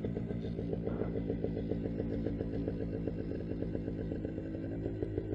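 Paramotor's small two-stroke backpack engine idling steadily before the run-up, a rapid even pulsing with a low hum.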